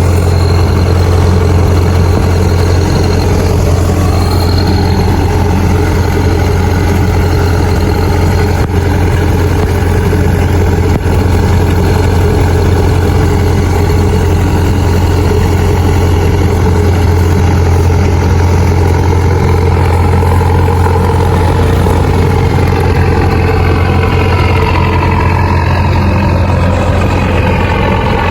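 Heavy engine of a rice combine harvester running steadily at throttle, with a strong low hum; its note rises over the last few seconds.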